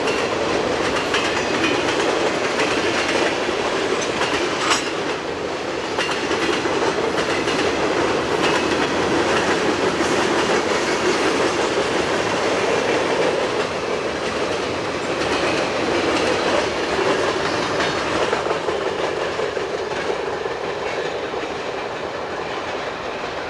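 Freight train cars rolling past, steel wheels running on the rails, with a sharp click about five seconds in. The sound eases off slightly near the end.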